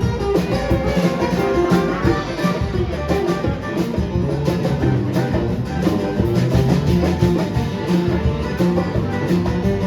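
Live band playing an instrumental passage: guitars over a steady drum beat.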